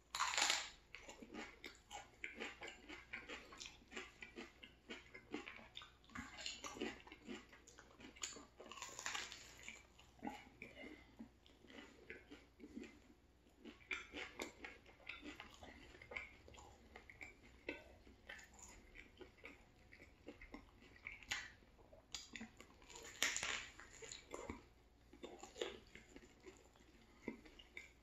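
A person biting into a turkey sandwich on a crusty roll and chewing it. There is a loud bite right at the start, then steady chewing with many small clicks throughout, and a few louder moments along the way.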